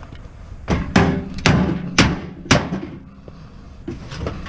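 Hammer blows on metal, about five sharp strikes roughly half a second apart, knocking a part loose from a scrapped appliance.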